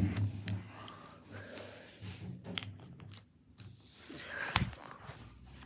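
A pen with little ink pressed hard and drawn along lines on a sheet of paper, scoring it with irregular scratching and paper rustling. There is a dull knock at the start and another about four and a half seconds in.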